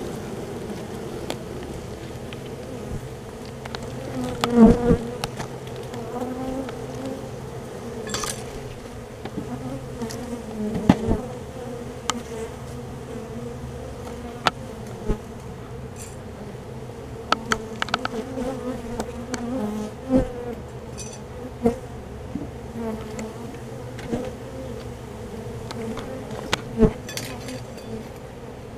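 A honeybee colony buzzing steadily, stirred up while it is being moved into a hive, with scattered sharp knocks and clicks, the loudest about four seconds in, at about eleven seconds and near the end.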